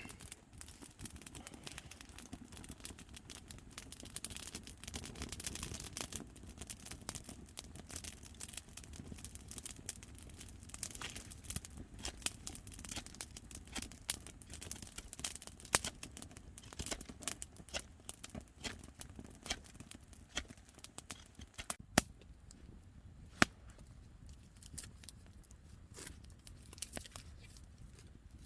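Raindrops striking a tarp: irregular taps and ticks over a steady hiss, with two sharper, louder taps about three-quarters of the way through.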